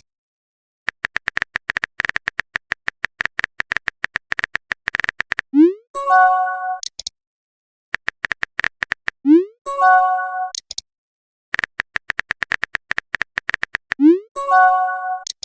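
Chat-app sound effects: three times, a burst of rapid keyboard-typing clicks is followed by a short rising pop and a brief chiming message tone.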